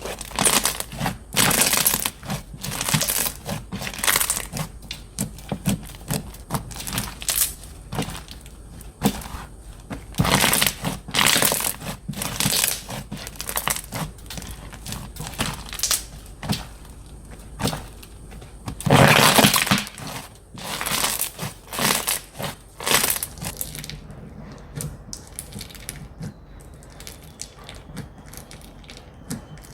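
Slime being squeezed, pressed and stretched by hand, giving irregular bursts of crackling and popping, with a longer, louder stretch about two-thirds of the way through. The handling goes quieter near the end.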